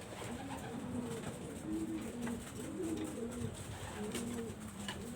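Domestic pigeons cooing: several birds at once, with overlapping low, rolling coos repeating throughout.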